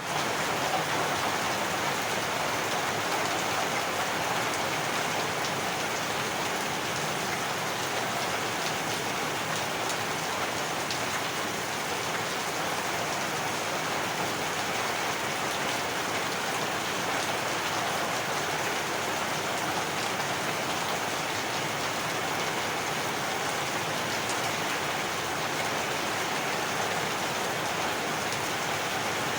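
Heavy rain falling steadily, an even hiss of drops with no change in strength.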